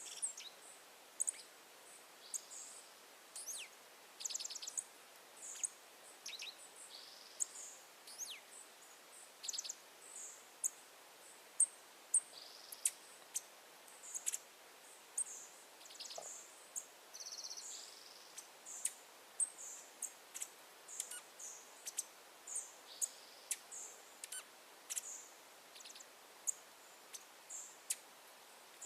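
Wild birds chirping: many short, high calls and quick down-slurred notes, several a second, over a faint steady hiss of outdoor background.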